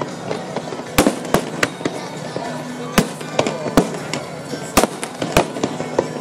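Aerial fireworks bursting: a string of about nine sharp bangs at irregular intervals, the loudest about three seconds in and near the five-second mark.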